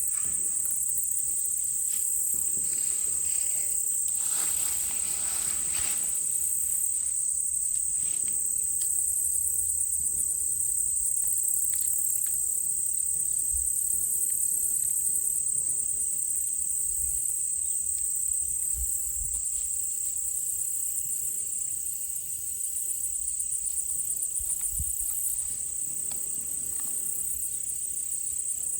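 A steady, high-pitched chorus of insects, with a faster pulsing layer above it. It carries on without a break, and a few faint low thumps come through in the second half.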